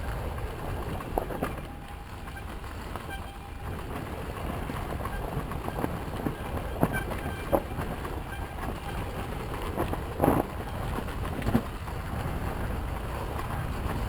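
Yamaha YZ250FX four-stroke single-cylinder dirt bike running on a trail ride, a steady rumble mixed with wind noise on the microphone. A few sharp knocks break through, the loudest about ten seconds in.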